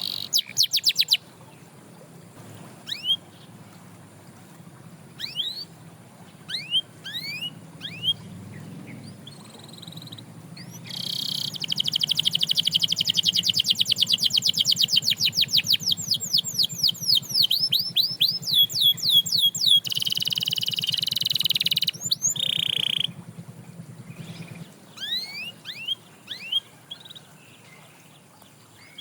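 Canary singing: scattered short rising chirps, then a long fast trill of repeated rising notes lasting about nine seconds, a harsh buzzy phrase, and more chirps near the end.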